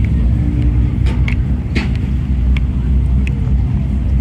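Rally car engine heard from inside the cabin, running at fairly steady revs with a deep, continuous drone, with a few sharp clicks or knocks over it.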